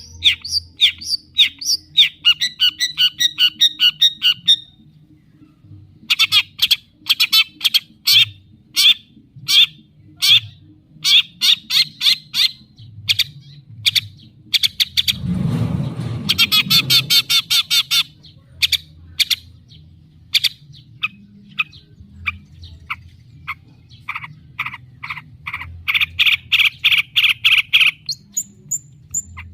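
Long-tailed shrike (cendet) singing loudly in fast runs of short, sharp, repeated notes. The song comes in bursts, with a short pause about five seconds in, and a brief rough rustle about halfway through.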